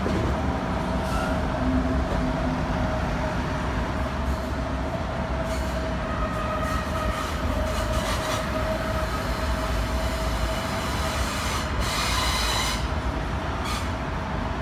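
A DB class 423 S-Bahn electric train rolling slowly, with a steady whine and brief squeals from the wheels on the rails. The loudest is a high-pitched wheel squeal about twelve seconds in.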